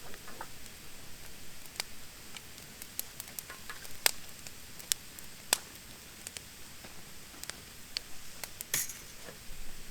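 Wood fire of damp, not-yet-seasoned thin branches crackling: scattered sharp pops over a faint hiss, the loudest about four, five and five and a half seconds in, and a short burst of crackles near the end.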